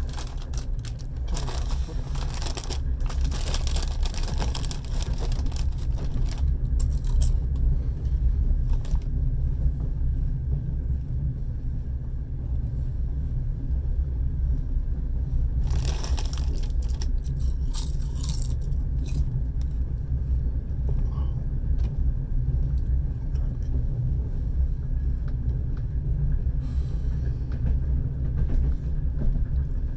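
Passenger train running along the track, heard from inside the carriage: a steady low rumble with short spells of rattling and clattering every few seconds.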